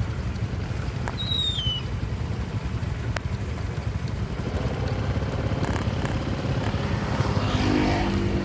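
Steady low outdoor rumble of wind and traffic, with a short falling whistle about a second in. Near the end a passing vehicle's engine swells up.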